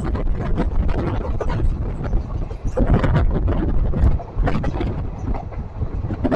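Passenger train running at speed, heard from on board: a heavy rumble and wind rush with an irregular clatter of wheels and coaches.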